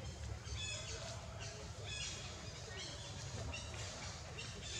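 A small bird chirping: short, high, repeated chirps, about two to three a second, over a steady low outdoor rumble.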